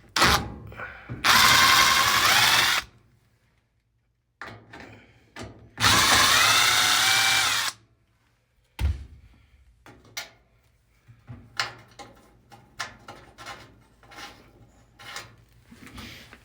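Power drill-driver running in two bursts of about a second and a half each, backing out the two screws that hold a dryer's top panel, followed by light clicks and knocks of handling.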